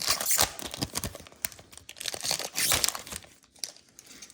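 Foil booster-pack wrapper crinkling and tearing, in two spells of rustling: one at the start and one about two seconds in. It dies away near the end.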